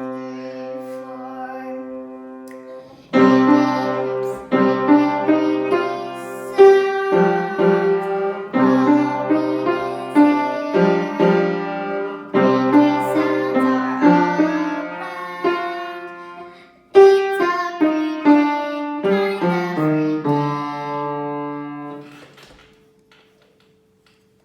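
Solo piano playing. A held chord fades out, then struck chords and single notes follow from about three seconds in, each ringing and decaying. There is a brief break in the middle, and near the end a last chord dies away to silence.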